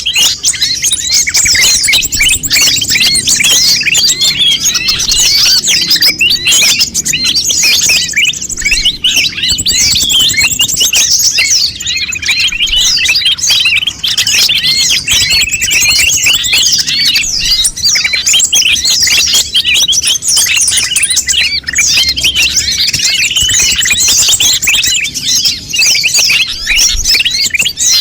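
Konin birds chirping noisily in a dense, unbroken stream of rapid high chirps and trills. This is a busy 'ribut' call of the kind used to lure konin or to train a caged bird to sing.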